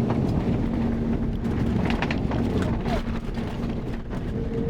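Cabin noise inside an Airbus A330-300 airliner around landing: a steady low rumble with a steady hum, which gives way to a higher-pitched hum near the end, and scattered light clicks and rattles.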